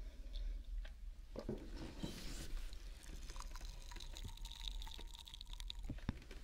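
Close-up wet mouth and liquid sounds with scattered small clicks, picked up by a 3Dio binaural microphone.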